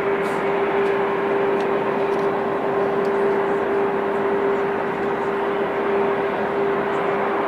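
Jet airliner engines running steadily: an even rush with a constant hum held on one pitch, unchanging in level.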